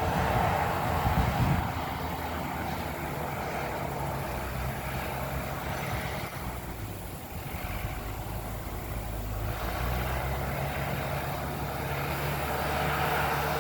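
Engine of a heavy land-clearing machine running steadily in the distance, with a louder, rougher stretch over the first couple of seconds.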